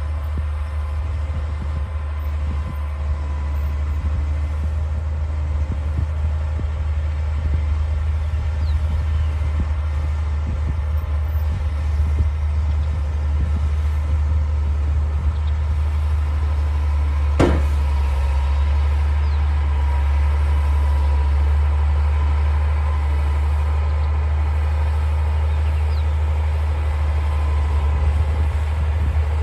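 D60 bulldozer's diesel engine running steadily at work, with one sharp knock a little past halfway through.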